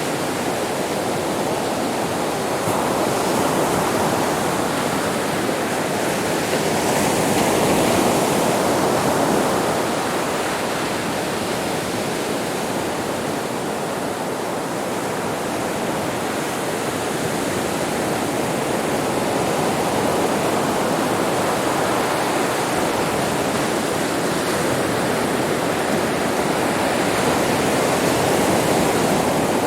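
Sea waves washing onto a beach: a continuous rush of surf that swells and eases slowly, louder around eight seconds in, again around twenty seconds, and near the end.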